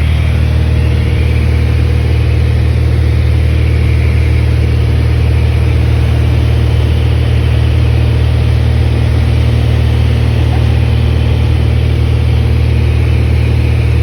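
Cessna 182's piston engine and propeller running steadily in flight: a loud, even drone with no change in pitch.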